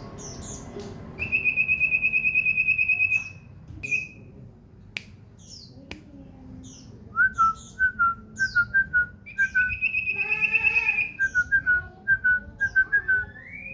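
Pet common iora singing: a rapid trill held for about two seconds, short high chirps, then a run of short repeated whistled notes with another trill partway through and a rising whistle near the end.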